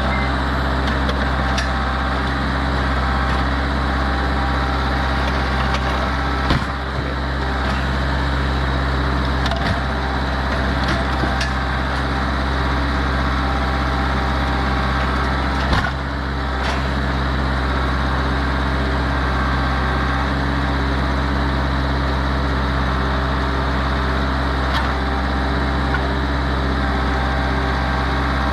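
Tractor engine running steadily, with a few sharp knocks and cracks over it, two of them louder, about a third of the way in and just past halfway.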